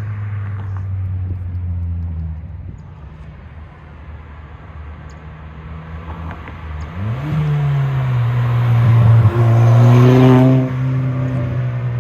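2016 Ford Fiesta ST's turbocharged 1.6-litre four-cylinder running through an MBRP aftermarket exhaust while the car is driven. The engine note eases down, then the revs rise quickly about seven seconds in and hold loud under acceleration, before dropping suddenly about ten and a half seconds in.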